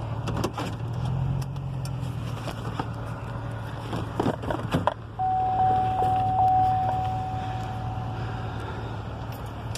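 Car engine idling with a steady low hum that stops near the end. A few clicks come about four seconds in, then a single long electronic beep holds steady for about three seconds.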